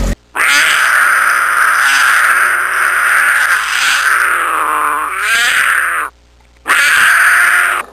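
Cheetah calling: one long, high cat-like call that wavers in pitch for about six seconds, then after a short break a second, shorter call.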